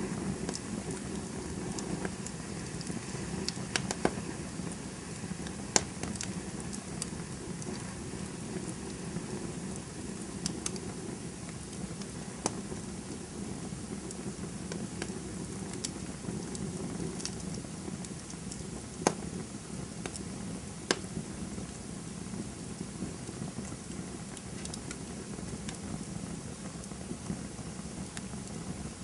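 Campfire burning: a steady hiss and low rumble of flames with scattered sharp crackles and pops.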